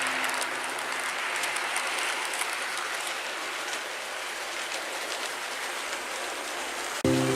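HO-scale model train rolling along its track: a steady hiss of wheels on rail, dotted with many fine, quick clicks.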